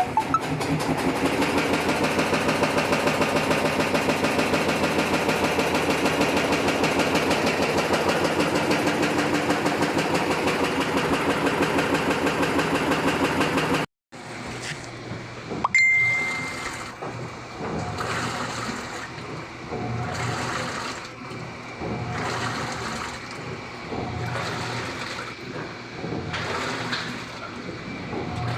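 Washing machine running with a fast, steady rhythmic rattle from the drum: the drumming noise of the fault being repaired. It cuts off suddenly about halfway through, then a short high beep and uneven machine sounds follow.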